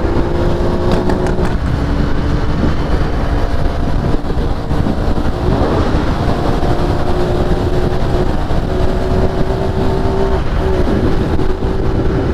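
Benelli 302S parallel-twin engine running through its stock exhaust while the bike is ridden. The engine note holds steady, drops about two seconds in and climbs again around six seconds, over a heavy low rumble.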